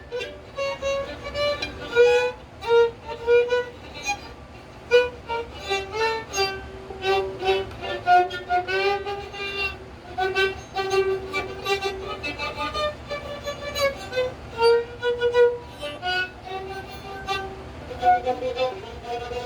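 A 130-year-old fiddle played by a beginner: a continuous melody of single bowed notes, one after another, tuned only as well as the player could manage.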